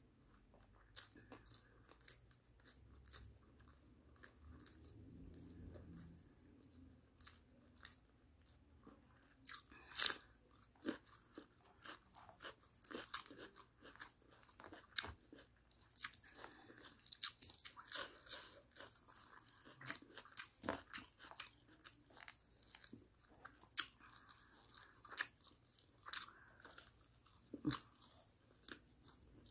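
Chewing and biting of barbecued chicken and rice eaten by hand: irregular sharp clicks and crunches, sparse at first and more frequent from about ten seconds in.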